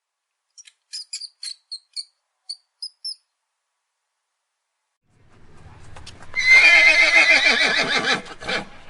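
A string of about eight short, very high-pitched squeaks, then after a pause a horse whinnying loudly, one long wavering neigh that falls in pitch.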